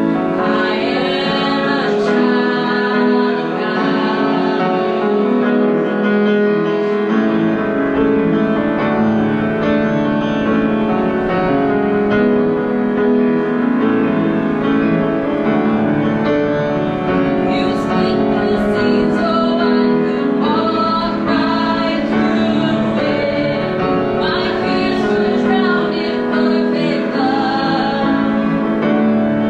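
Worship music: a woman singing over keyboard accompaniment.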